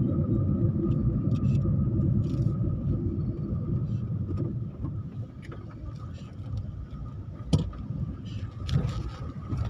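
Low rumble of a road vehicle on the move, easing off about halfway through, with a few sharp clicks.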